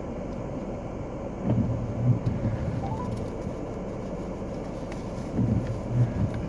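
A car running on the road, heard from inside the cab: a steady low hum of engine and tyres, with a couple of louder rumbles.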